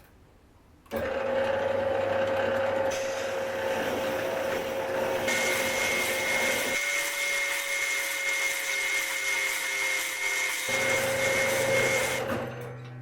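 A power tool running steadily, starting abruptly about a second in. Its pitch and character change suddenly a few times, and it stops near the end.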